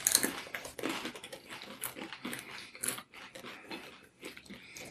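People biting into and chewing crisp taco shells close to the microphone: a run of short, irregular crunches and crackles that thins out toward the end.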